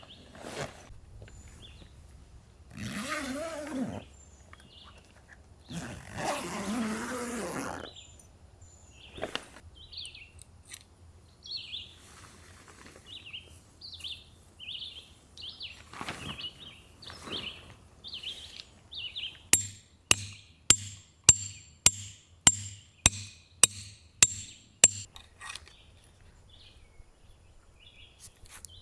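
Two brief rustles, then a run of short high bird chirps repeating about every half second. About two-thirds of the way in come about a dozen sharp ringing taps, roughly two a second, the loudest sounds here.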